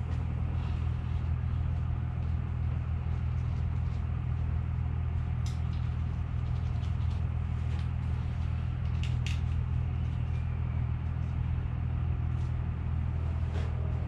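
Steady low mechanical hum, even and unchanging, with a few light clicks now and then.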